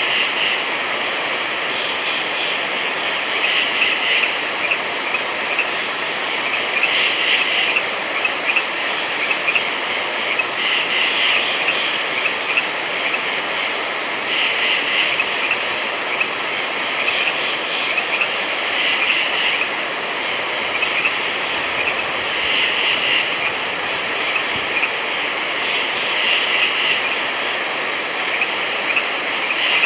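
Frogs calling at night: short calls, each lasting about half a second to a second, come back about every three to four seconds over a steady, dense background hiss.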